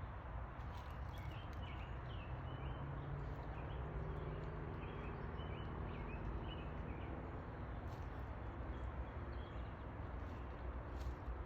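Small yellow songbirds twittering in short, quick chirpy phrases, mostly in the first few seconds and again near the end, over a steady low rumble.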